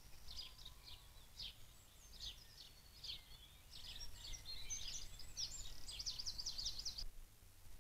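A songbird singing a fast run of short high chirps and slurred notes that ends in a rapid trill, then stops abruptly about seven seconds in. A low steady background rumble runs underneath.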